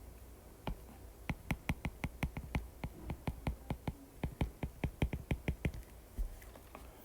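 Rapid light clicks, about five a second for several seconds, with a few single clicks before and after: a stylus tapping on a tablet screen while handwriting notes.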